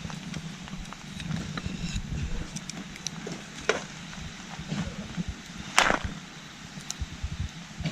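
Campfire of scrap wood burning, giving scattered small crackles and a few sharper pops, the loudest about six seconds in, over the steady rushing of a nearby stream.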